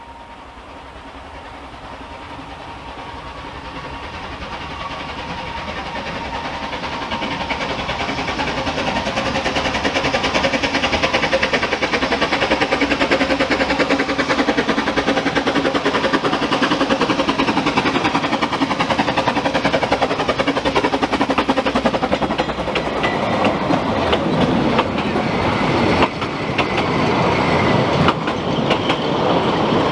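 A Ffestiniog Railway narrow-gauge train grows steadily louder over the first ten seconds, then runs close by with a fast, even clatter of wheels on the track. Some sharper knocks and sliding tones come in past the twenty-second mark.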